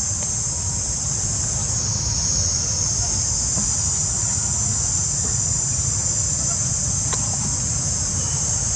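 A steady, high-pitched chorus of insects trilling without a break, over a low rumble. There is a faint click about seven seconds in.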